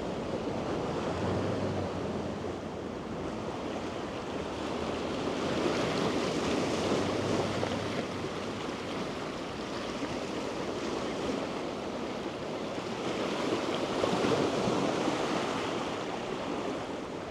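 Sea waves washing onto the shore, a steady rush that swells louder twice, with some wind on the microphone.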